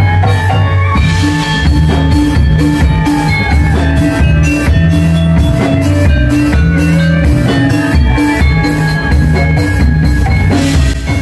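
Gamelan music: metallophones play quick ringing notes over drums and deep gong strokes, accompanying a pendet and leak dance performance.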